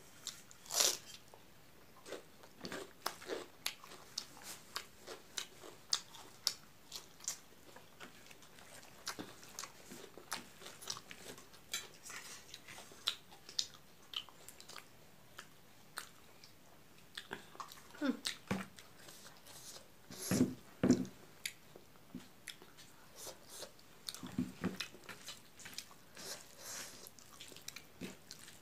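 Close-up eating sounds of rice and milk curry taken by hand: chewing, wet lip smacks and sharp mouth clicks, with squishing as fingers knead the rice. A few louder, deeper mouth sounds come about two-thirds of the way through.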